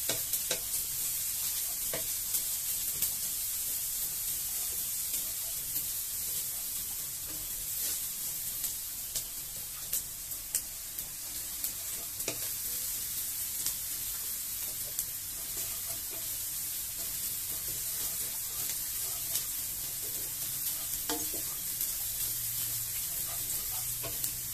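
Chopped shallots, garlic and ginger sizzling in hot oil in a non-stick wok, with a steady hiss. A wooden spatula stirs them, with scattered clicks and scrapes against the pan.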